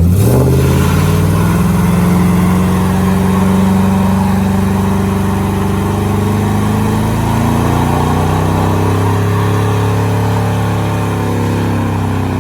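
A vehicle engine revs up sharply and is then held at steady high revs for a long burnout, with a hiss above the engine note.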